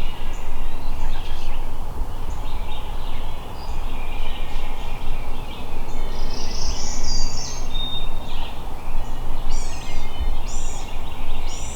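Songbirds chirping with short, quick downward-slurred notes, repeated several times, over a steady low rumble of wind and microphone noise.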